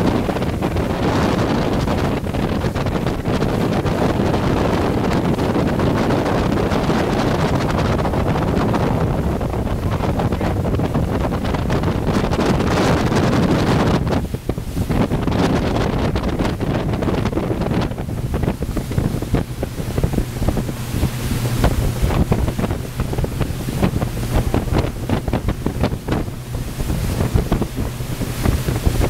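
Carver 3207 cruiser running underway: a steady low engine drone under heavy wind buffeting on the microphone and rushing water. It dips briefly about halfway through.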